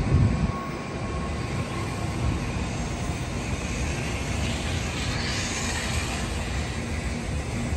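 A train running along the station tracks below: a steady low rumble, with a rise in hiss from its wheels and the passing air about four to six seconds in, over the general hum of the city.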